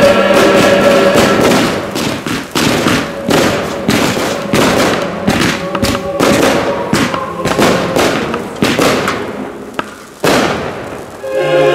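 Fireworks going off in a rapid, irregular series of sharp bangs, several a second. Music plays under them for the first second or so and comes back near the end.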